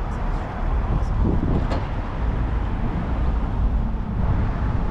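Steady road traffic noise with a heavy low rumble, and a brief click about a second and a half in.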